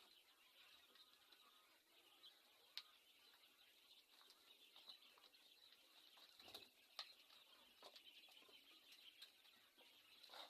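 Quail peeping faintly and continuously, with a few sharp clicks scattered through.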